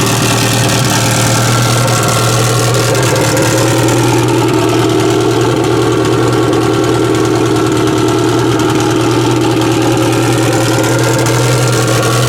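Turbocharged Subaru EJ25 2.5-litre flat-four in a drag-race Mk1 Ford Fiesta idling steadily.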